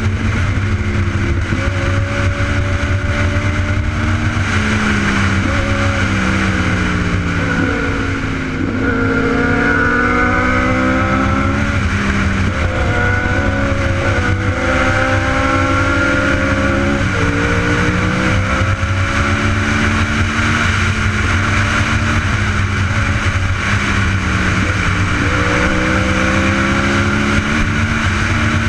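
Sport motorcycle engine under way, its pitch climbing steadily as it accelerates and dropping sharply at each gear change, several times over.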